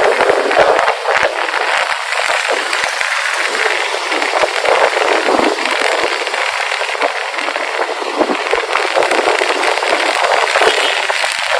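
Loud, steady crackling rush of wind buffeting a motorcycle rider's action-camera microphone while riding, mixed with road noise.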